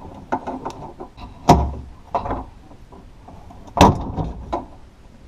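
Small clicks and two sharp knocks, about 1.5 and 3.8 seconds in, from hands and a tool working inside a Honda Odyssey front door shell to pry up the plastic clip that holds the door-handle rod.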